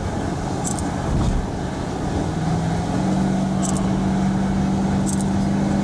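Road and engine noise inside a moving vehicle. The engine note steps up in pitch about halfway through as the car speeds up. Brief high ticks come every second or two.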